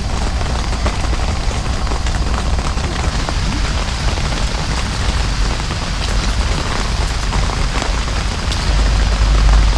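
Heavy rain pouring steadily, with a low rumble that grows louder near the end.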